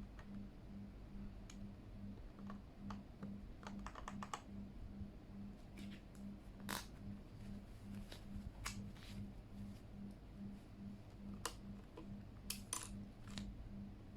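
Scattered plastic clicks and clacks from a Keychron K8 mechanical keyboard as keycaps are handled and pressed onto its switches, some single and some in quick clusters. A faint low hum pulsing about three times a second runs underneath.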